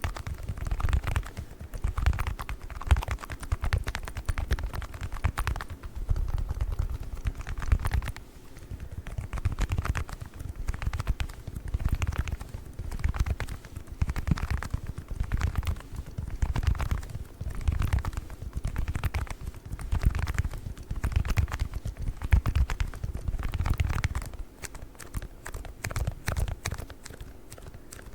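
Hard plastic ice cubes clicking and clattering against each other as they are handled close to a microphone, in repeated bursts about a second apart. The handling adds a low rumble.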